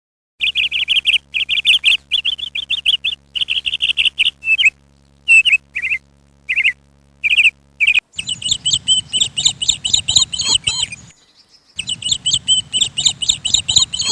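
A small bird chirping in quick runs of short, repeated chirps. About eight seconds in it switches to a second, higher-pitched bird chirping over a low background rumble.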